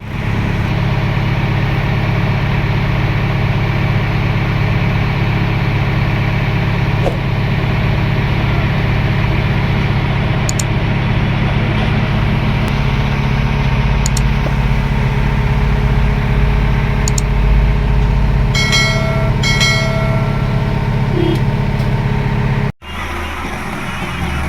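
Heavy diesel engine running steadily, with two short high-pitched tones (about a second each) a little before the end. It then cuts off suddenly to a quieter engine sound.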